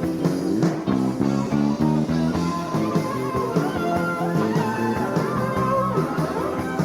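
Live band music with guitar prominent over a steady drum beat.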